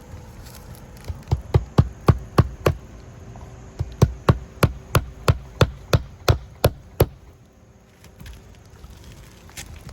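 Hammer blows in two quick runs, about six strikes and then about ten, roughly three a second, typical of nailing during shingle roof repair.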